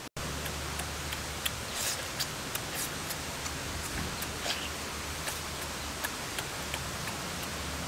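Chewing and lip-smacking while eating cooked pig intestines by hand: short, irregular wet clicks over a steady hiss.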